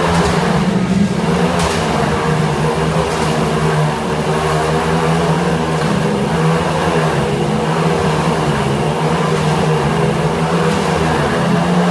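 Motorcycle engines running hard and continuously as riders circle inside a globe of death, their pitch holding steady with slight wavering.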